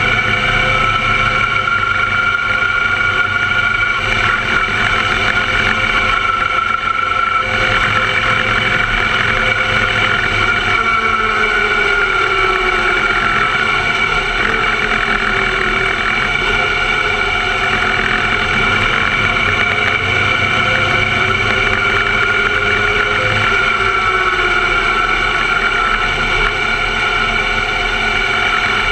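Engine of a small open-wheel formula car, heard close from an onboard camera, running at low revs as the car rolls slowly, its pitch rising and falling gently with the throttle.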